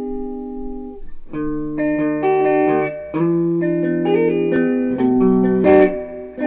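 Background music: an acoustic-sounding guitar playing chords, changing every second or so.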